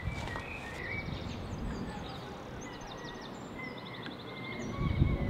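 Small birds chirping and trilling on and off over a steady low outdoor rumble, with a louder low rumble just before the end.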